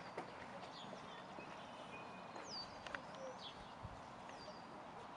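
Faint birdsong: high chirps that slide downward and then hold briefly, repeating every couple of seconds, with a few other short calls and light clicks over a steady outdoor hiss.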